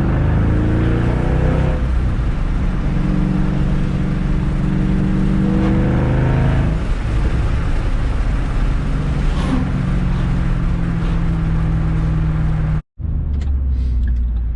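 Shelby GT500's V8 through a Borla ATAK exhaust, heard from inside the cabin with the windows down, pulling up through the gears at moderate revs. The engine note rises, drops at a shift about two seconds in, rises again and drops at another shift near seven seconds, then holds steady while cruising. The sound cuts out for a moment near the end.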